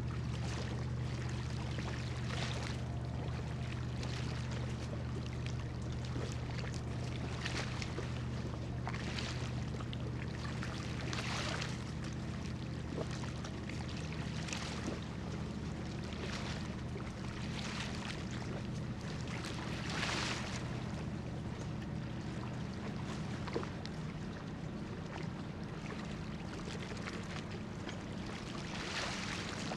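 Low, steady drone of a cargo ship's diesel engine running while the ship lies at anchor, with water lapping and splashing softly every second or two.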